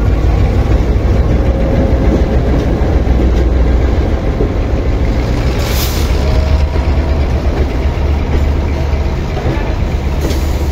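Freight train crossing slowly: diesel locomotive engines running with a deep, steady rumble as they pass, then freight wagons rolling over the crossing. A brief hiss about six seconds in.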